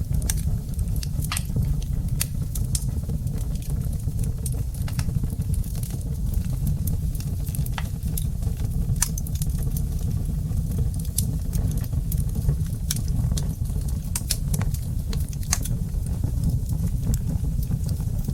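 Wood fire crackling in a fireplace: a steady low rumble of burning with frequent sharp, irregular snaps and pops.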